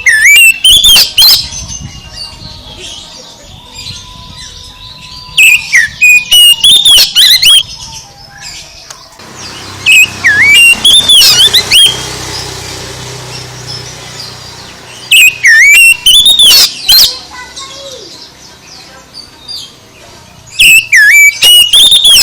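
Oriental magpie-robin (kacer) singing very loudly in five bursts of fast, varied whistled and squawky phrases, about one every five seconds with short pauses between.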